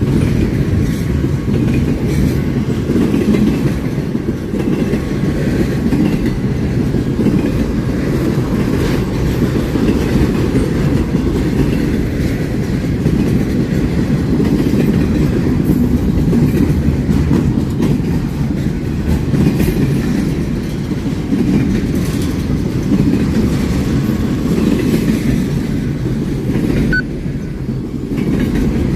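A train's cars rolling past on the rails: a steady, loud low rumble that keeps up throughout.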